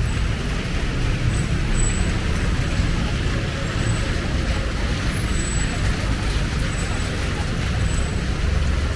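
Street traffic: a steady rumble of motor vehicles running along the road.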